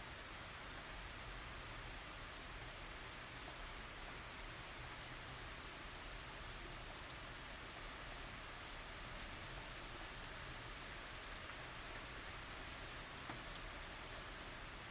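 Steady light rain falling on surfaces: an even hiss with many small, sharp drop ticks scattered through it.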